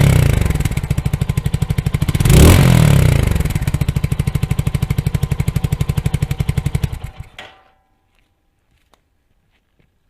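Mutt Akita 250 motorcycle's single-cylinder engine running with a steady pulsing beat, blipped twice with brief revs about three seconds apart, then fading out after about seven seconds.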